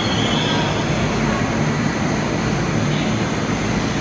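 Metro train running: the steady noise of a moving subway car, with a faint high wheel squeal fading out near the start.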